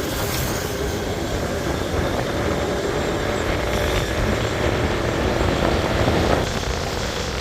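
Motorbike riding along: the engine runs under a dense rush of wind and road noise. It grows louder toward about six seconds in, then drops back.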